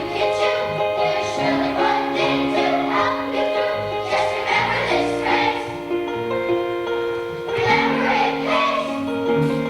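Children's choir singing a song over instrumental accompaniment, with held notes and a moving melody throughout.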